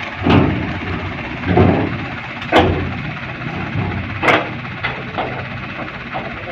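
Mitsubishi dump truck's engine running steadily while foundation stones tumble from the tipped bed, with about six heavy thuds and clatters of rock spread through.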